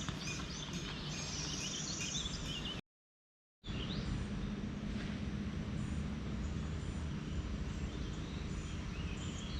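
Birds chirping over a steady outdoor background noise, cut to total silence for under a second about three seconds in.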